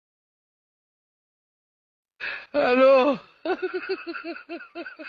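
Silence, then about two seconds in a person's drawn-out vocal exclamation followed by a quick run of laughter, about six short ha's a second.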